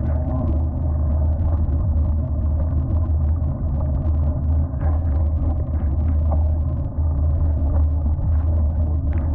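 Steady low rumble of a vehicle on the move during a rainy ride, with faint scattered ticks higher up.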